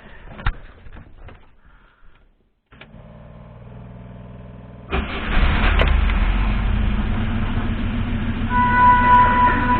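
Moskvich 412's UZAM four-cylinder engine starting about five seconds in and then running steadily and smoothly, freshly rebuilt after a piston knock. A few clicks come before it, and a steady high whine joins in near the end.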